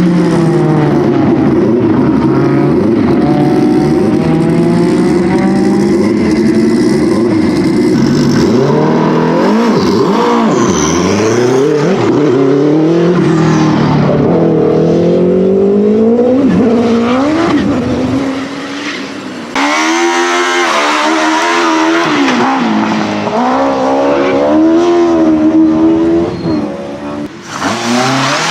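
Racing car engine at hard throttle, its revs rising and falling again and again through gear changes and corners. About twenty seconds in the sound cuts abruptly to a car whose engine revs up and down in quicker swings.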